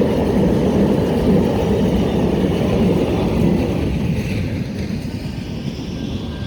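Siemens S700 light-rail trolley passing through a grade crossing, its wheels and running gear rumbling steadily on the rails, getting quieter over the last couple of seconds as it moves off.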